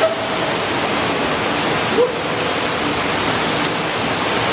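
Rushing water of a cave streamway, a loud, steady wash. Two short sharper sounds stand out briefly, one right at the start and one about two seconds in.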